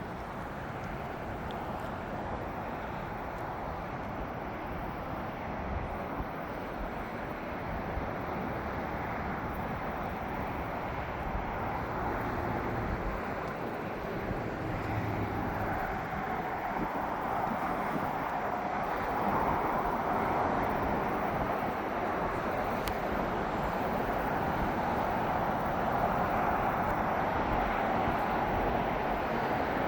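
Steady outdoor rushing noise, such as wind, rain or distant traffic, slowly growing louder, with no distinct claps or cracks.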